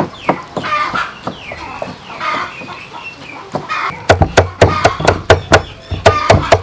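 Chickens clucking, then from about four seconds in, a knife chopping hard on a wooden board in a fast even rhythm of about four strokes a second.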